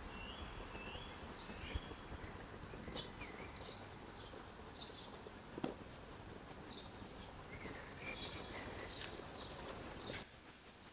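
Faint outdoor ambience: a steady background hiss with small birds chirping now and then in short, high, gliding notes. There is a single sharp tap about five and a half seconds in. Near the end it drops to a quieter room tone.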